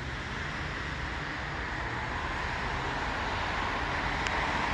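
Diesel locomotive, a GP20C leading a train, approaching with a steady rumble that grows slowly louder.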